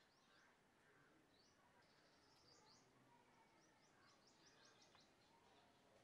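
Very faint chirping of small birds: short high notes in a few quick clusters, the busiest run about four to five seconds in, over a low steady hiss.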